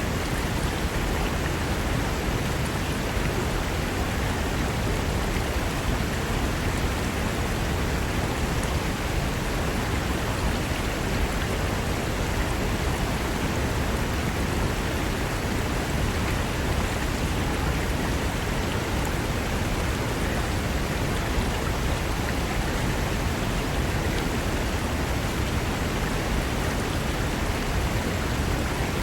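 A fast mountain river rushing over rocks, a steady, even rush of water.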